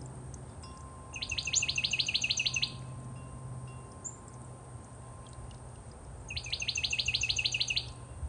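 A songbird singing two short trills, about four seconds apart, each a rapid high-pitched run of about ten repeated notes.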